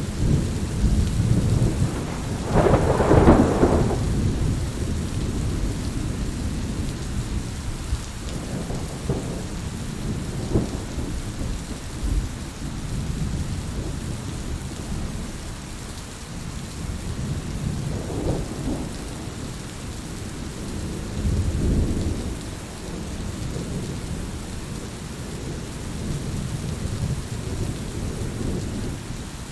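Steady rain with rolling thunder. A loud peal of thunder comes about three seconds in, followed by several fainter rumbles.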